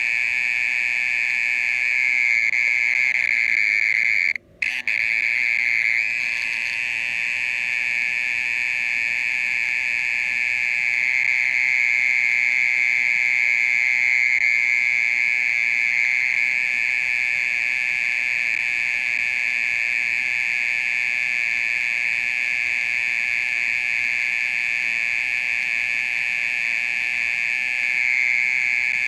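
Mole cricket singing a steady, unbroken high buzzing trill, with one brief break about four and a half seconds in.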